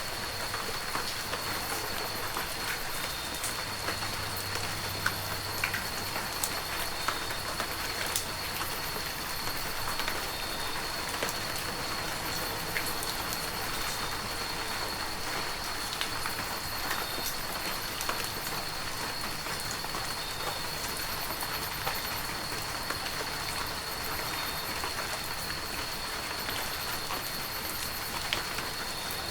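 Heavy rain falling steadily, with many separate drops ticking sharply against the steady hiss. A thin, steady high tone sits under the rain.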